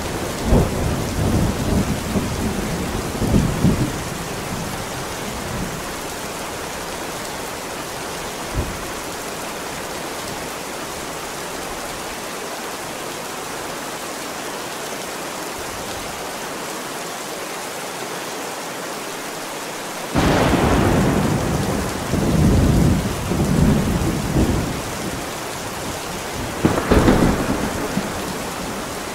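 Steady heavy rain with thunder: rolling rumbles in the first few seconds, then a sudden loud thunderclap about 20 seconds in that rolls on for several seconds, and another sharp crack near the end.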